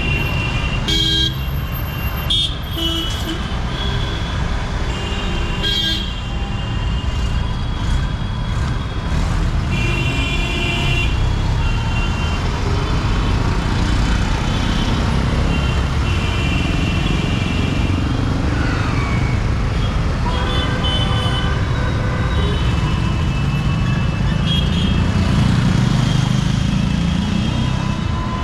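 Street traffic with engines running and vehicle horns honking again and again, short blasts over a steady low rumble.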